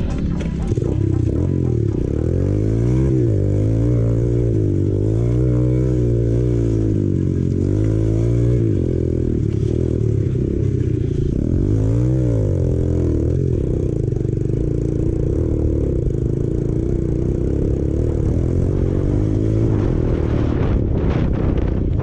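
Apollo RFZ 125cc dirt bike's single-cylinder four-stroke engine running hard, its pitch rising and falling again and again with the throttle through the first half, then holding steadier.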